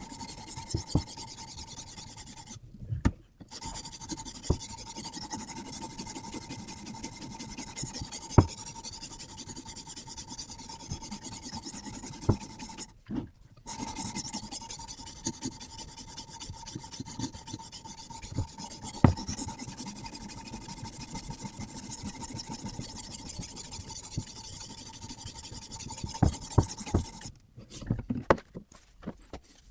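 Sharpening stone on a Hapstone RS guided sharpening system rasping along a carbon-steel knife blade in rapid, steady strokes. The strokes stop briefly twice and then for longer near the end, with a few sharp knocks in between.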